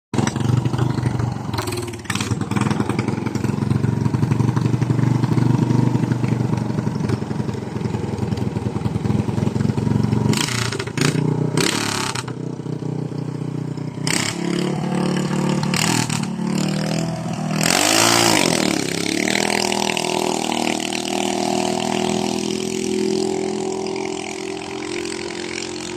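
A small boat's engine running steadily, its pitch dipping and rising briefly about eighteen seconds in, with a few short bursts of loud rushing noise over it.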